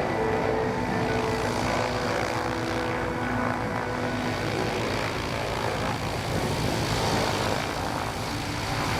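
Two Pratt & Whitney R-985 Wasp Junior radial engines of a Beech C-45 Expeditor running at low taxi power: a steady, rapidly pulsing rumble with propeller drone.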